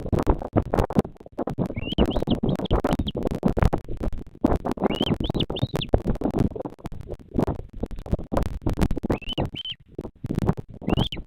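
Continuous rough crackling and rumbling on the nest camera's microphone. Over it, four groups of short high chirps from a bird, each group a few quick rising-and-falling notes, repeat every three to four seconds.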